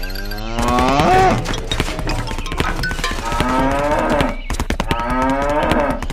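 Cattle mooing: three long moos, each rising in pitch, with scattered clicks and knocks between them.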